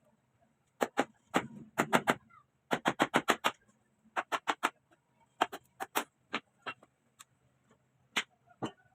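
Sharp taps or knocks on something hard, coming in quick runs of three to seven, the longest at about eight taps a second, with a few scattered single taps near the end.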